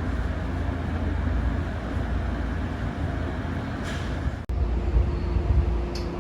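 Steady low rumble of an electric train, with short hisses of air and a sudden break about four and a half seconds in.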